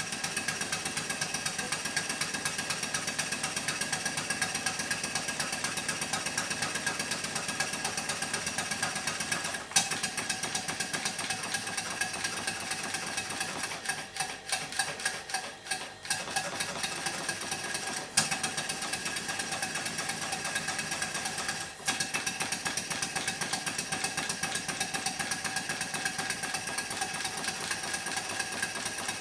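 A 1½-inch scale model traction engine running, its exhaust beating in a rapid, even rhythm. The beat falters briefly about halfway through, with a few sharp clicks here and there.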